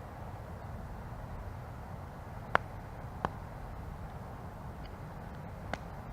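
Wood campfire burning: a steady low rush broken by three sharp pops of crackling wood. The first pop, about two and a half seconds in, is the loudest.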